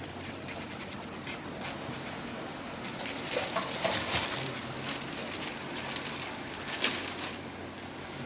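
Scraping and rustling handling noises with scattered clicks, busiest about three to five seconds in, and one sharp click near the end.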